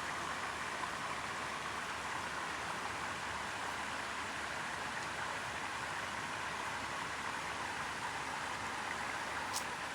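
Steady rush of a mountain creek's cascading water, an even hiss.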